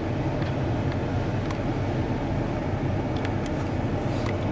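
Steady low hum of a truck idling, heard from inside the closed cab, with a few faint light ticks.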